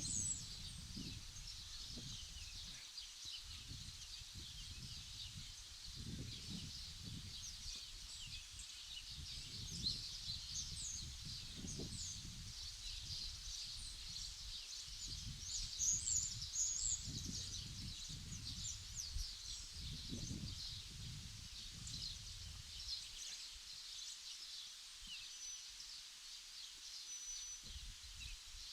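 Many small birds chirping and twittering at once, busiest about halfway through, over a low rumble that rises and falls.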